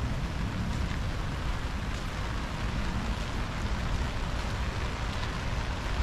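Steady rain falling, an even hiss with a few faint drop ticks, over a continuous low rumble.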